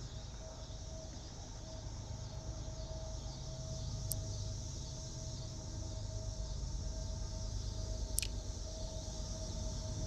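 Outdoor creekside ambience: a steady low rumble under a high hiss of insects, a faint steady tone, and two brief ticks about four seconds apart.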